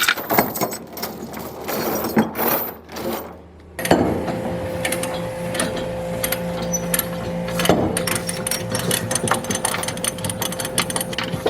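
Clanks and clicks of equipment being readied on the trailer, then about four seconds in a skid steer's engine starts abruptly and runs steadily, with clicking and rattling over it.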